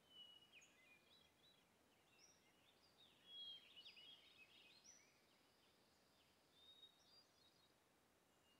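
Near silence, with faint, scattered bird chirps and short whistles, a little louder about three and a half seconds in.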